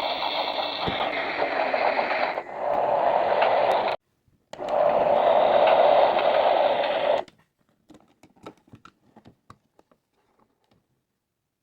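Small battery motor of a toy slime 'washing machine' running with a steady whirr. It cuts out about four seconds in, starts again half a second later and stops about seven seconds in, followed by a few faint clicks and taps.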